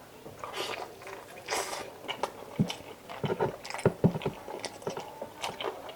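Close-miked eating: a person chewing and biting chicken adobo, with many short wet mouth clicks and a couple of brief louder noisy bursts near the start.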